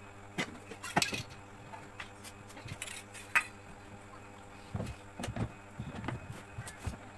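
Metal parts and tools clinking and knocking at irregular moments during hands-on reassembly of a washing machine's gearbox. The sharpest knock comes about three and a half seconds in.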